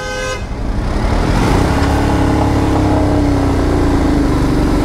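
Royal Enfield Himalayan's single-cylinder engine pulling away and then running steadily at road speed, the sound swelling over the first second and then holding level.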